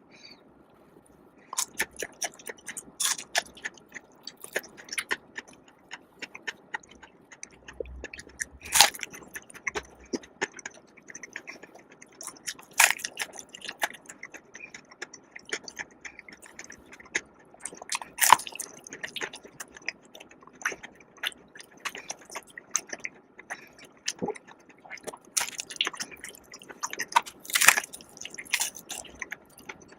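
Eating crispy fried chicken: irregular biting crunches and chewing clicks, starting about a second and a half in, with a few louder crunches among them.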